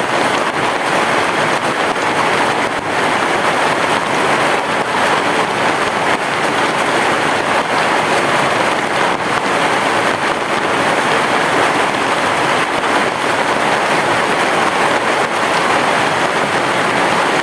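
Heavy rain falling on a roof: a dense, steady hiss of rain that stays even throughout.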